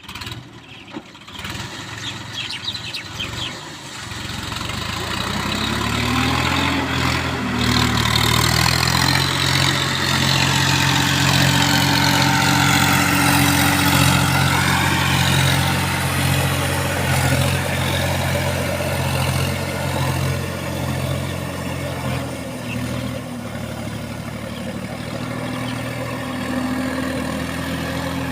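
John Deere 5310 tractor's diesel engine starting about five seconds in, rising briefly in pitch as it catches, then running steadily at idle.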